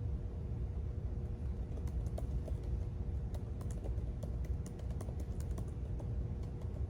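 Typing on a computer keyboard: a quick run of light key clicks starting about two seconds in and stopping about a second before the end, over a steady low room rumble and faint hum.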